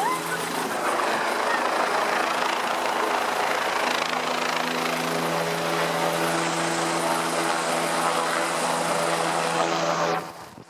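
EMS rescue helicopter running close by: a steady engine drone with a loud rushing of rotor wash. It cuts off suddenly shortly before the end.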